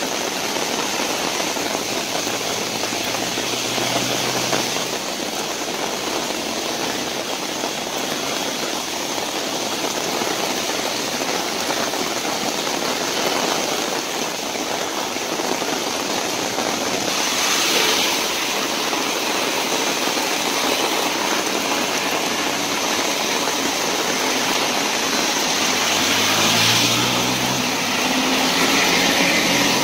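Heavy rain falling, a steady dense hiss. Near the end a vehicle engine rises in pitch as a bus passes close on the wet road.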